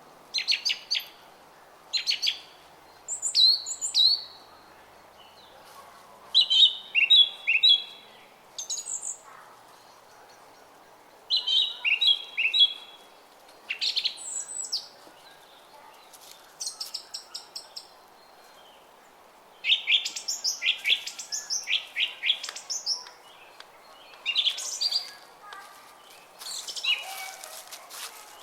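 Small songbirds chirping and singing in short, quickly repeated phrases, with pauses between bouts, over the steady babbling of a brook.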